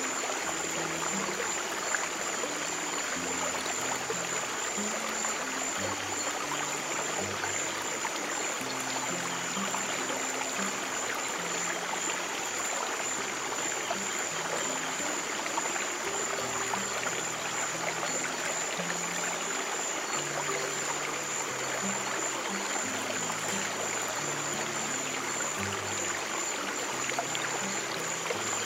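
Steady rushing and trickling of a stream, with slow, soft low piano notes sounding beneath it. A thin steady high tone runs throughout.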